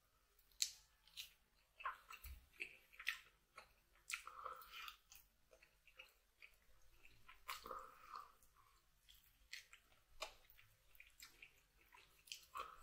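Chewing and gnawing braised oxtail held in the hands, meat being pulled off the bone: irregular short smacks and clicks.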